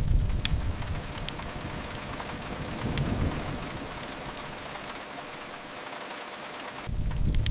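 Steady rain on a window, with deep low rumbling that swells near the start, again about three seconds in, and near the end. Scattered sharp pops of a crackling fireplace sound over it.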